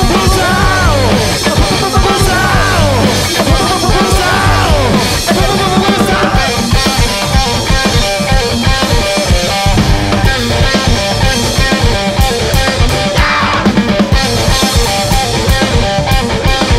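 Live garage rock played by a guitar and drum kit duo: loud, driving drums under distorted guitar, with bending guitar or vocal lines in the first few seconds.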